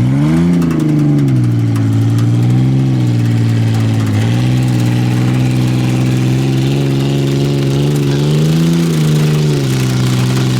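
Ford Ranger's V6 engine revving hard: the pitch climbs and falls back in the first two seconds, climbs again, dips about four seconds in, holds steady at high revs, then climbs and drops once more near the end.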